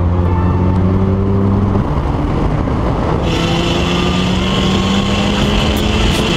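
Turbocharged engine of a 420 hp VW Jetta GLI pulling at full throttle, heard from a camera mounted outside on the car's body, with wind and road roar. The engine note breaks off about two seconds in at a gear change, then the revs climb steadily again.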